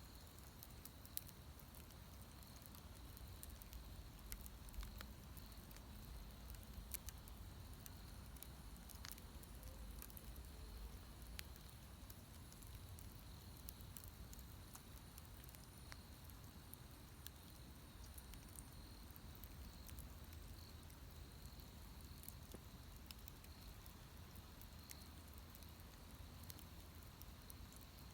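Wood bonfire crackling faintly, with sparse sharp pops scattered irregularly through it.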